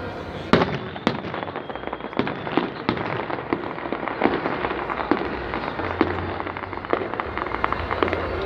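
Fireworks display: a dense run of bangs and crackles at irregular intervals, several a second, with the sharpest bangs about half a second and a second in.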